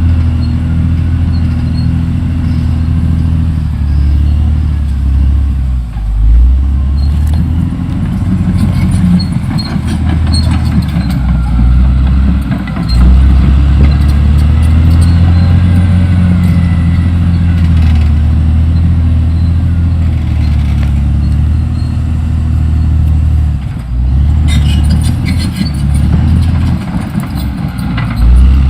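Diesel engine of a Caterpillar D6R XL crawler bulldozer working under load, running steadily with brief dips in engine note a few times and occasional clanks.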